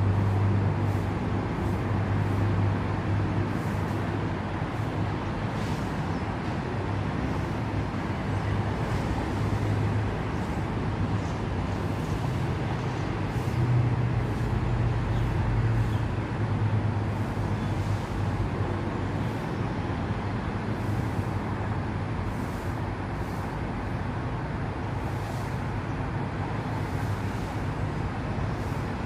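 Steady road traffic noise, with a low engine hum that swells and fades a few times.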